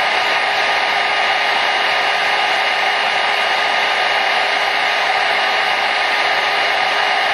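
Hair dryer running continuously: a steady, unchanging rushing hiss of fan and airflow with a faint motor whine.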